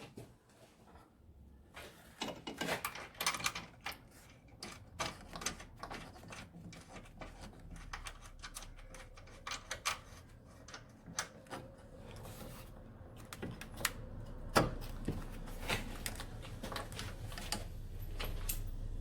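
Ratchet spanner clicking in short runs and hand tools clinking on metal as the engine mount bolts are wound in. A low hum grows louder through the second half.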